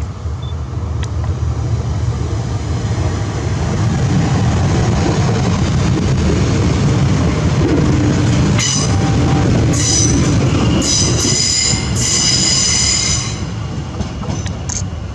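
A Trenitalia Jazz electric regional train passing close by: a steady rumble of wheels on rail that grows louder in the middle, with high-pitched wheel squeal coming and going for a few seconds in the second half as it runs through a curve.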